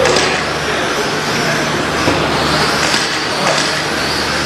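A pack of stock-class RC short course trucks racing: motor whines rising and falling as they accelerate and brake, with tyre noise and the odd click of a landing, over a steady low hum.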